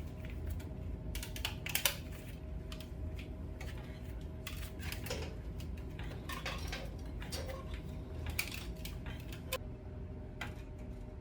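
Scattered light clicks and taps, as of tools or small parts being handled, over a faint steady hum.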